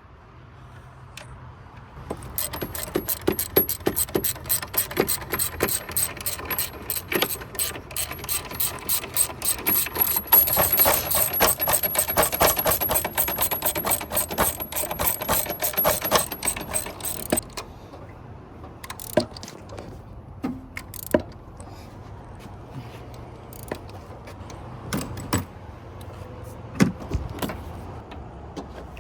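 Ratchet wrench clicking rapidly for about fifteen seconds as a motor mount bolt is turned, followed by scattered clinks of tools and metal parts.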